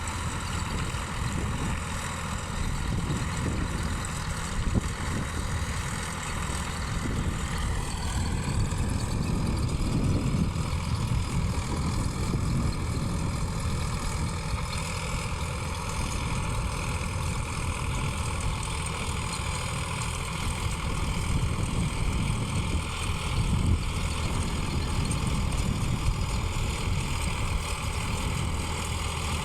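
Sonalika 745 DI tractor's diesel engine running steadily with a low rumble.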